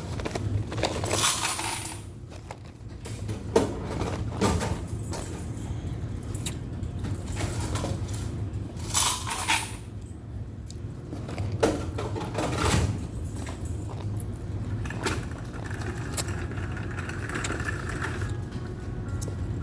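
Ice being crunched and rattled in a cup, with a few short crunching bursts and sharp clinks, over the steady low hum of laundromat machines.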